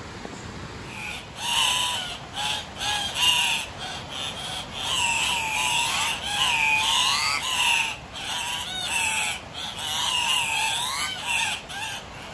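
Andean cocks-of-the-rock calling: a long series of loud, harsh squawks, each bending up and down in pitch, starting about a second in and repeated many times.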